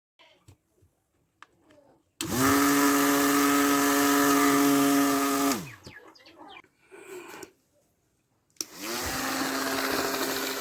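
Small electric motor spinning up quickly to a steady whine and winding down about three seconds later, then starting up again near the end.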